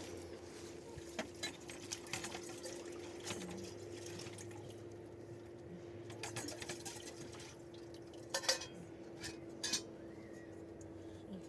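Dishes and utensils clinking and knocking now and then, with a few sharper knocks late on, over a steady low hum.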